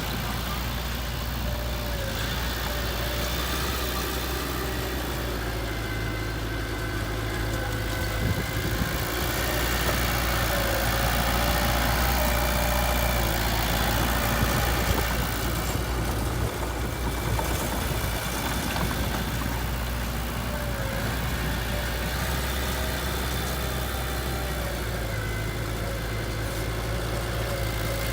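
Heavy machine's engine idling and running steadily, getting somewhat louder for a few seconds in the middle.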